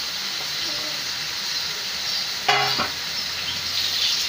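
Taro-leaf greens and spices sizzling steadily in hot oil in a kadai, with stirring. A brief, louder, ringing sound comes about two and a half seconds in.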